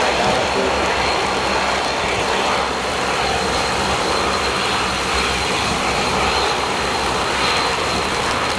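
Bombardier DHC-8 turboprop's engines and propellers running at power, a loud steady rushing noise with a thin high whine held throughout.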